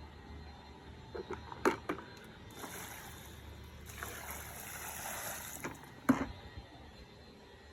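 Water poured out for about three seconds, with a few knocks before it and one sharp knock about six seconds in.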